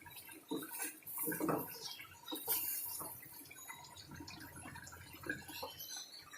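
Water splashing and dripping in irregular bursts, louder in the first few seconds, then settling to a quieter trickle.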